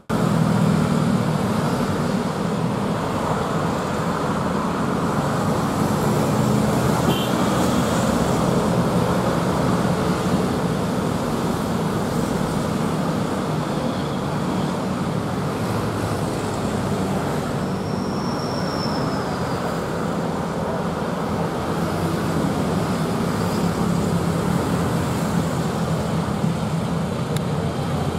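Steady rumble of an approaching diesel locomotive hauling a passenger train, blended with the hum of road traffic. A brief high, thin tone sounds about two-thirds of the way through.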